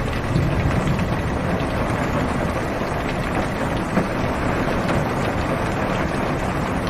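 Heavy rain falling on a car's roof and windows, heard from inside the cabin: a steady dense hiss with many small drop taps.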